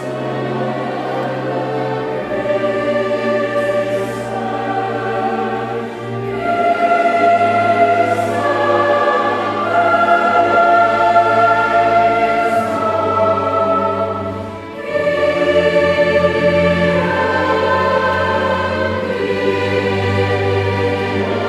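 Mixed choir singing a slow sacred mass movement with chamber orchestra accompaniment, sustained chords rising and falling in loudness, with a brief dip in the sound about three-quarters of the way through before it swells again.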